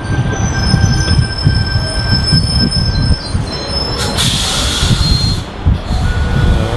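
Passenger train pulling into a station: a low rumble with the high squeal of wheels and brakes for the first three seconds or so, then a loud hiss of air at about four seconds that lasts a second and a half.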